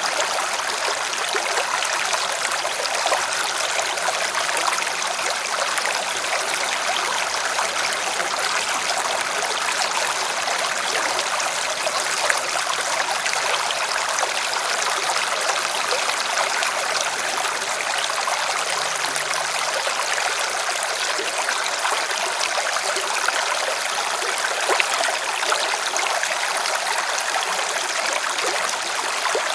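River water running and splashing over rocks, a steady rushing with small irregular splashes.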